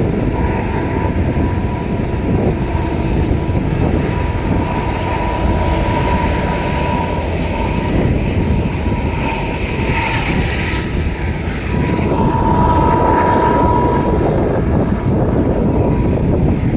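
Freight train passing, its cars rolling over the rails with a steady rumble. A thin high tone runs through it and swells for a couple of seconds about twelve seconds in.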